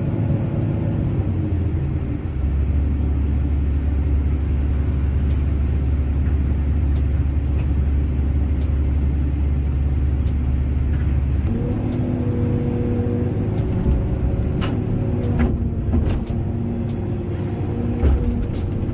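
Excavator's diesel engine running steadily under work. About eleven seconds in the engine note changes and a steady whining tone joins it. Several sharp knocks come in the last few seconds.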